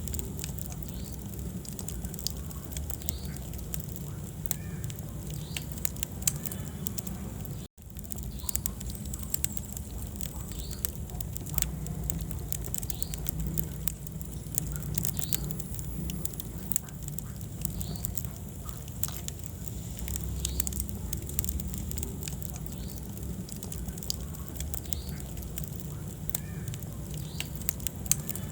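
Wood fire in a fireplace crackling, with frequent irregular sharp pops and snaps over a low rumble of the flames. The sound cuts out for an instant about eight seconds in.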